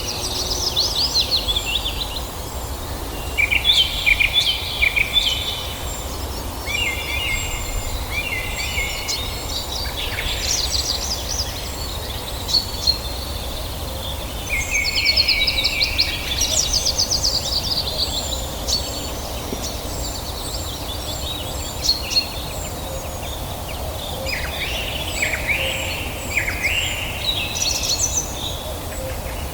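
Several wild birds singing and calling at once: rapid chattering trills and quick runs of chirps, with a thin high note repeated over and over, over a steady low background rumble.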